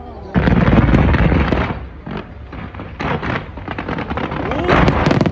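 Aerial fireworks going off in rapid volleys of bangs and crackles: a heavy volley about half a second in that fades over a second or so, scattered bangs around the three-second mark, and another loud burst near the end.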